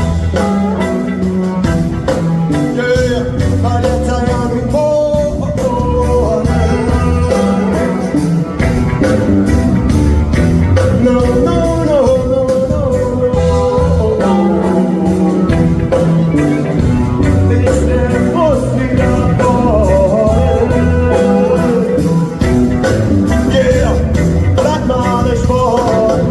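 Live rock band playing an instrumental passage: a bending lead melody over bass and a steady drum beat.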